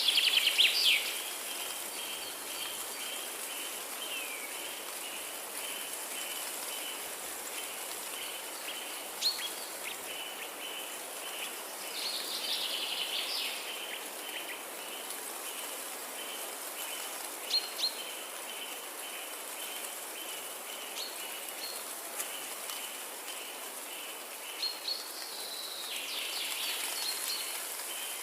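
Forest ambience: songbirds sing short phrases three times, with a few sharp single chirps between, over a steady hiss and a continuous fast, even pulsing call.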